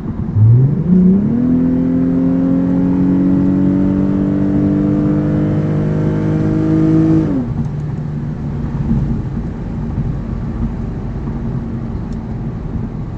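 2008 Lexus IS250 AWD's V6 engine with a muffler delete and 3-inch straight piping, heard from inside the cabin with the windows closed while accelerating. The engine note climbs quickly, then rises slowly through a long pull of about six seconds. It drops off suddenly a little past seven seconds in, leaving a steady, lower exhaust rumble.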